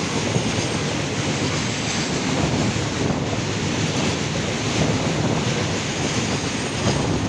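A train passing close by: a steady, loud rush and rumble of its wheels and coaches on the track.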